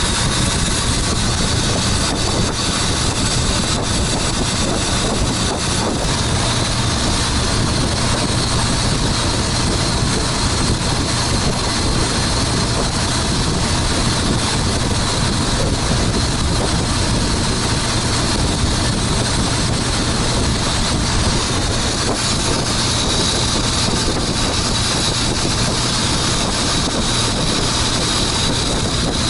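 Motorboat engine running steadily at cruising speed, a constant low drone with a hissing edge.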